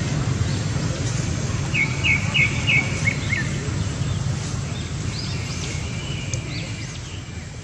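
Birds chirping over a steady low outdoor rumble: a quick run of five short high chirps about two seconds in, then scattered fainter chirps. The whole sound fades out near the end.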